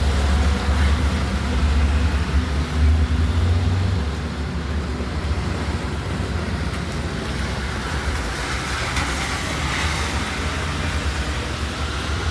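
Outdoor street noise in light rain: a heavy low rumble for the first four seconds, then a steady hiss that swells and fades around nine seconds in, as a vehicle passes.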